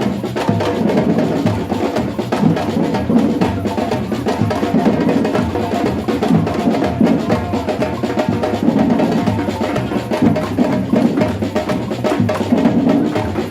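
Batucada drum group playing a samba rhythm: deep bass drums beating under a dense, steady pattern of sharper drum and percussion strokes.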